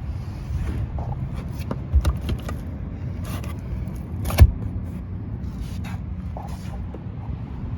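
A steady low rumble like a running vehicle, with several knocks and rattles. The loudest is a single sharp knock about halfway through.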